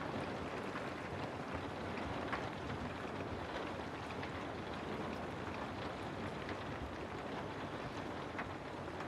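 Steady rain falling on a house, an even wash of rain noise with a few sharper drops standing out now and then.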